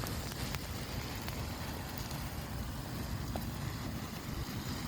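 Bonfire of loose matches burning, with a few faint sharp crackles over a steady low rumble of wind on the microphone.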